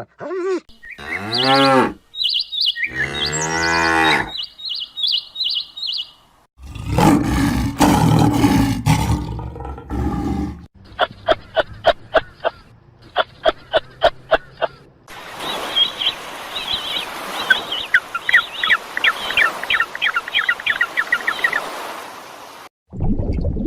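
A run of different animal calls, one after another. A cow moos for about four seconds in the middle, between pitched calls and short high chirps before it and rapid clicking and falling chirps after it.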